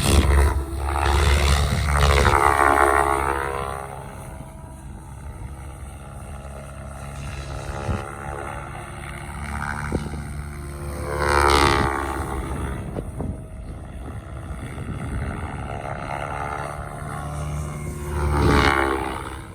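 XLPower Specter 700 V2 electric RC helicopter in flight, its rotors buzzing steadily. It passes close three times, and each pass gets louder with the pitch sweeping as it goes by.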